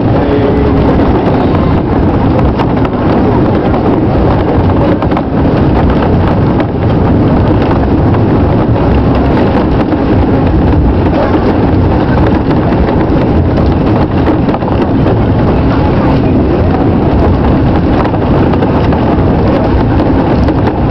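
Cog railway train climbing a steep grade: loud, steady mechanical rumble and rattling clatter from the locomotive and its cog drive, heard from inside the passenger car.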